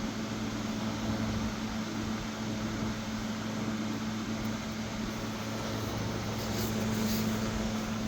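Steady machine hum with a low drone and an even hiss, with a faint brief rustle about six and a half seconds in.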